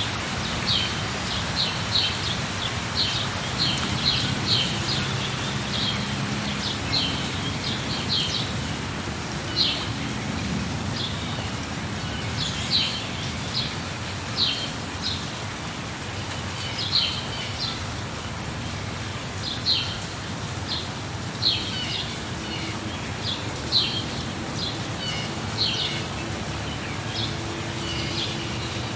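Steady rain with a bird chirping over it: short, high chirps repeating irregularly, often in quick pairs, through the whole stretch.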